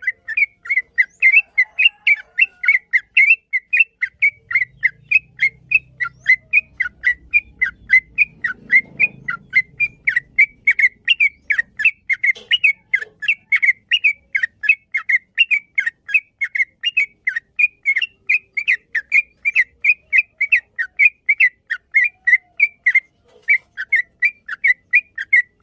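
Yellow-vented bulbul (trucukan) singing a long unbroken run of quick, repeated whistled chirps, about three or four a second.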